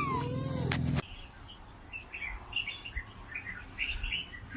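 A cat's meow trails off and cuts out about a second in. Then come scattered, faint, short high chirps of small birds, for about three seconds.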